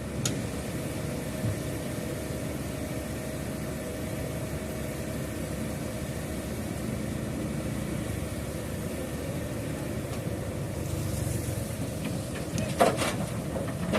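Heavy construction-vehicle engine running steadily at a low, even rumble, with a couple of sharp knocks near the end.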